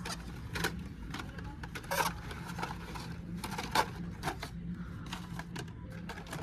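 Blister-packed die-cast toy cars being handled and flipped through on store pegs: irregular plastic clicks, taps and scrapes, over a steady low store hum.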